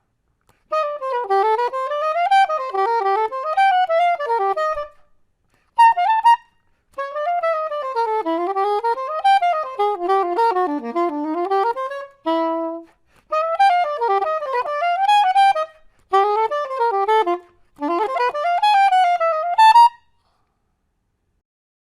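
Solo soprano saxophone playing fast runs that climb and fall, in several phrases with short breaths between them and one short held note about halfway. It stops about two seconds before the end.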